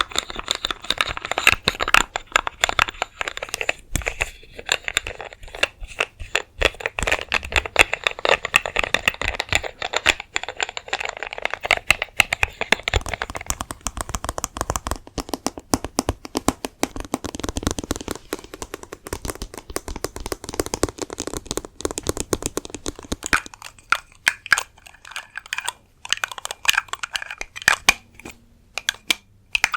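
Close-miked ASMR trigger sounds: rapid, dense crinkling clicks that thin out to sparser clicks after about 23 seconds.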